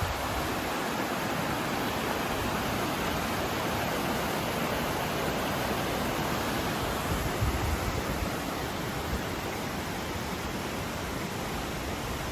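Mountain river water rushing steadily over rocks, a dense even roar of flowing water.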